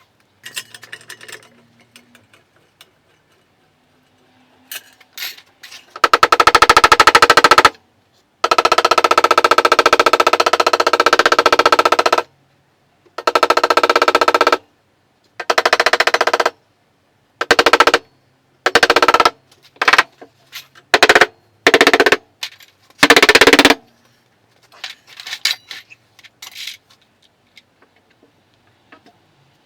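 A power tool run in repeated bursts, from under a second to about four seconds each, each burst a rapid even rattle with a steady whine through it and short quiet gaps between.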